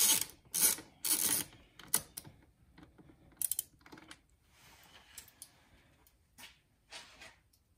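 Irregular clicks and short rattles of a T20 Torx driver working loose the screws of a car's engine air filter housing, busier in the first few seconds and sparser toward the end.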